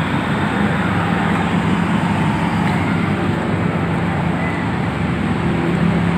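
Steady, unchanging drone of a large passenger ferry's engines, with a constant low hum.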